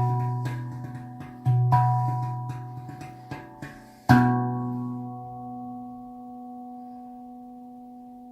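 Rav Vast steel tongue drum in Celtic B minor, played by hand: several ringing notes and light taps, then one strong final stroke about four seconds in that rings out and slowly fades.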